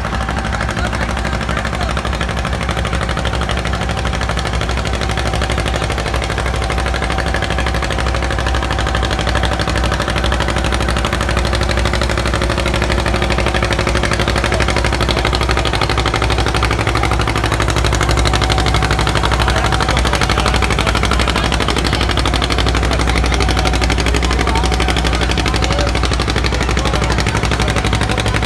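Pulling tractor's engine running steadily under load with a rapid, popping exhaust rattle, growing a little louder about halfway through.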